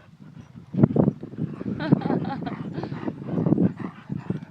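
Dogs at play, scuffling with knocks and thumps, with a few brief high calls about two seconds in.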